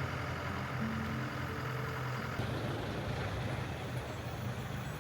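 Safari vehicle engine running steadily while driving, with a constant low hum.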